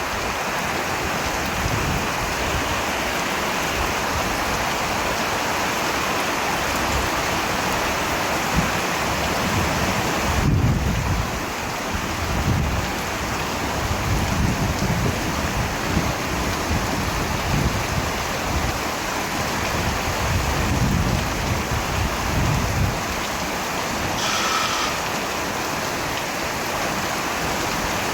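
Steady heavy rain, with low rolls of thunder rumbling several times through the middle. A brief faint whistle-like tone sounds near the end.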